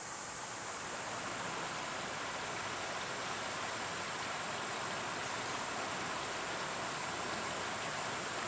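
Steady rushing background noise with no distinct events, swelling slightly during the first second and then holding even.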